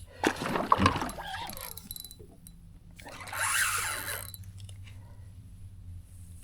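Fishing reel working as a hooked fish is fought: mechanical ratcheting and whirring in the first second, then a second stretch of it around three to four seconds in.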